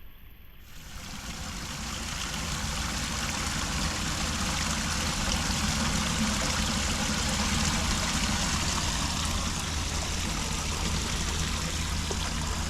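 Floodwater rushing steadily into a storm drain, swelling in over the first couple of seconds, as the unclogged drain takes the water.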